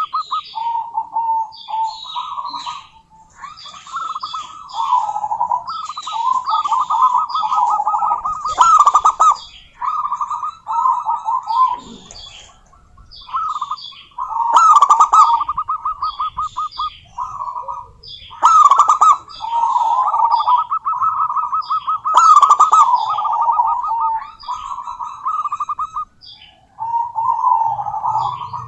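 Zebra doves calling: rapid, staccato cooing trills around one pitch, repeated in phrases with short pauses between them, with short high chirps over them.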